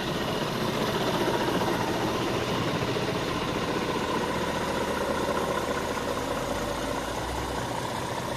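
Scania G490 truck's 13-litre six-cylinder diesel idling steadily, with a slight extra low rumble near the end.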